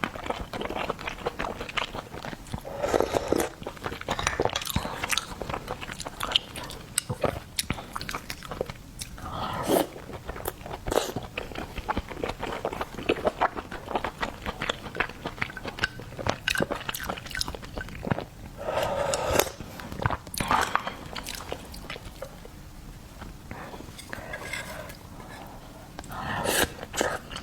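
A person chewing and biting food close to the microphone, with wet mouth sounds and many irregular small clicks and crunches, as in eating garlic oysters.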